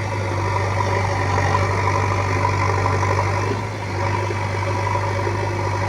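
Diesel engine of heavy earth-moving machinery running steadily at an even low pitch.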